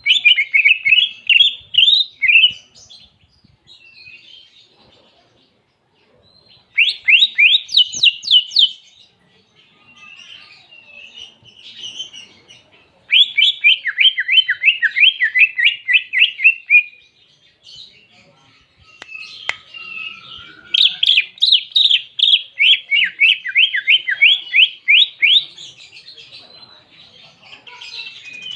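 Green leafbird (cucak ijo) singing learned canary song: phrases of a few seconds of fast, rapidly repeated down-sweeping notes, separated by short pauses with softer twittering.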